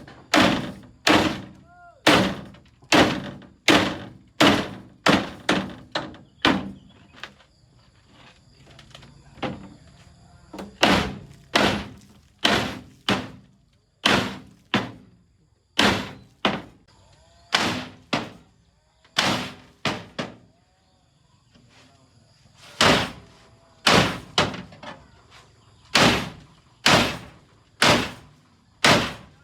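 Repeated heavy hammer blows on metal, about one a second, each with a short ring, in runs broken by two brief pauses.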